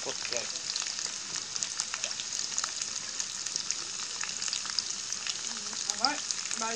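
Potato chunks frying in oil in a wok: a steady sizzle dotted with fine crackling pops.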